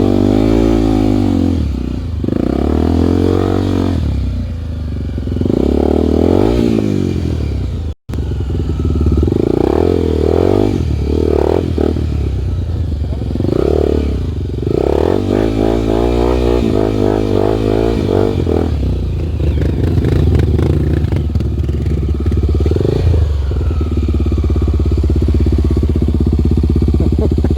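Single-cylinder four-stroke Honda trail motorcycle engine under way, its pitch rising and falling over and over as the throttle opens and closes. The sound cuts out for an instant about eight seconds in, and the engine holds a fairly steady speed from about twenty seconds on.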